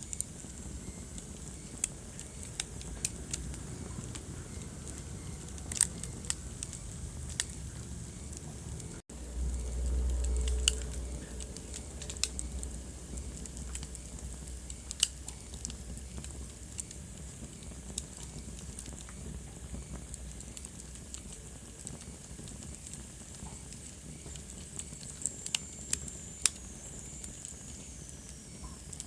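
Wood fire burning in a fireplace: a low steady rumble of flames with sharp crackles and pops at irregular moments. The sound cuts out for an instant about nine seconds in, then the low rumble is louder for a few seconds.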